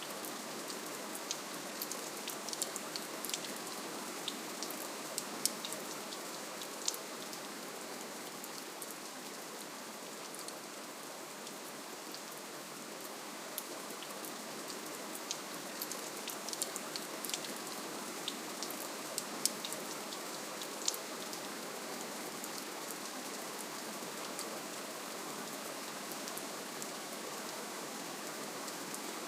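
Steady light rain falling, an even hiss with scattered sharp drip ticks on top, more of them in the first few seconds and again about halfway through.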